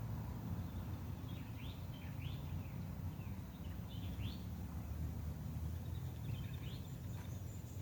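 Several short, rising bird chirps, a few seconds apart, over a steady low background rumble.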